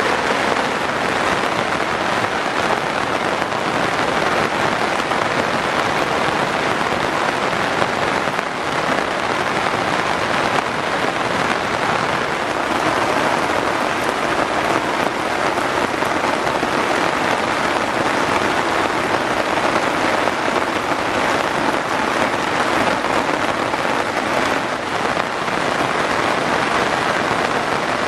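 Steady rain falling and pattering on surfaces, an even wash of sound that holds constant throughout.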